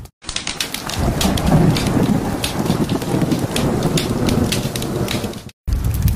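Steady rain with a low rumble of thunder, between two brief dropouts to silence, one just after the start and one near the end.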